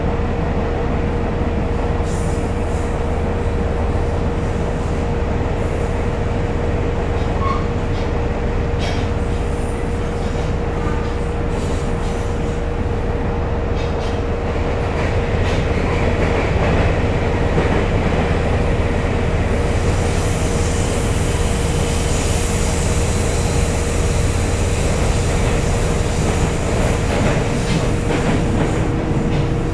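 Interior running sound of a JR Kyushu YC1 series hybrid diesel-electric railcar (Hitachi VVVF drive) under way: a steady rumble of wheels on rail with one constant tone above it. It grows louder, with more hiss, from about halfway through.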